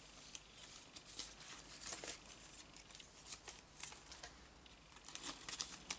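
Paper cutouts being handled and shuffled by hand: soft rustling with scattered light ticks of paper against paper.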